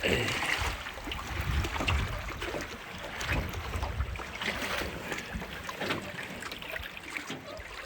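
A moored boat rocking in the wind: water slapping the hull, with creaks and small knocks from the boat. Gusting wind buffets the microphone.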